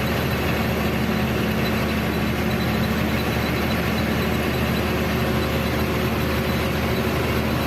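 Heavily loaded lorry's engine running steadily at an even speed, a constant low drone with no change in pitch.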